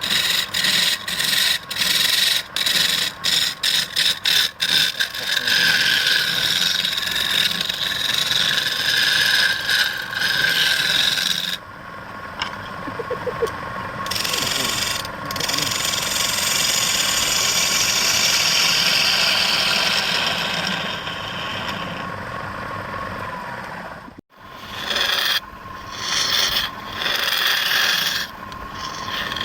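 A turning tool scraping and shaving wood spinning on a lathe, a steady rasping cut. It breaks off briefly many times in the first few seconds and once more about 24 seconds in.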